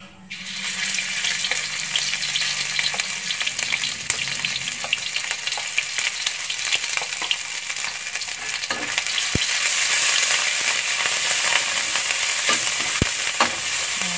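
A blended paste of garlic, ginger and red chili hits hot oil in a wok and sizzles, starting suddenly just after the beginning. A metal spatula clicks and scrapes against the wok as the paste is stirred.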